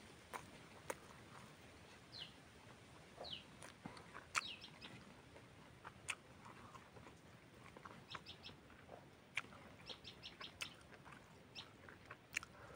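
Close-up chewing and lip-smacking of a mouthful of rice and chicken, heard as scattered sharp clicks, with small birds chirping in the background: a couple of falling chirps in the first few seconds and quick runs of short high notes in the second half.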